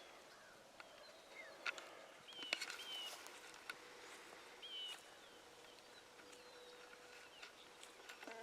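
Faint songbird chirps and calls, short sliding notes repeated several times, with a few sharp clicks about two seconds in.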